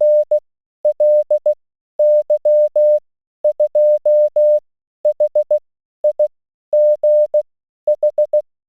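Morse code sent as a single steady beeping tone, short and long beeps in about eight groups separated by short pauses.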